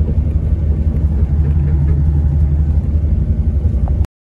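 Classic car's engine running at a steady low rumble while cruising, heard from inside the cabin; the sound cuts off suddenly about four seconds in.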